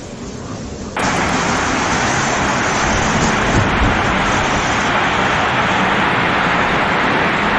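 Dense, even hiss of heavy storm rain pouring down. It starts suddenly about a second in, after a quieter stretch of rain.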